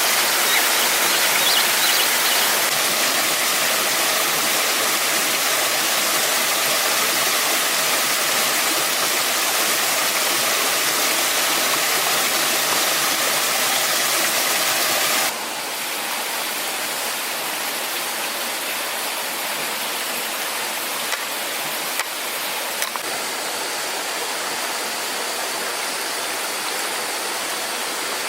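Steady rushing of falling water. About halfway through it cuts abruptly to a quieter, thinner water sound, with a few faint clicks near the end.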